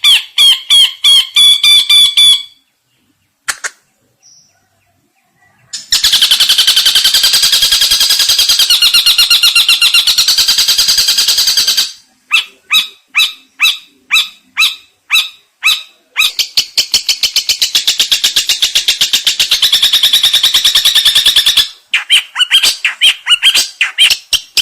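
Long-tailed shrike (cendet) singing in loud bursts of fast, harsh repeated notes. A pause of about three seconds follows the first burst, and a stretch of slower separate notes comes between two long rattling runs.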